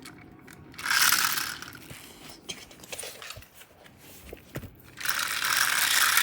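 A toy train running along its track with a ratcheting, geared whirr, in a short burst about a second in and a longer one from about five seconds in, with a few light clicks between.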